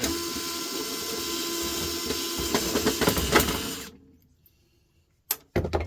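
Cordless power screwdriver running steadily for about four seconds, backing screws out of a light fixture's housing, then stopping; a couple of sharp clicks follow near the end.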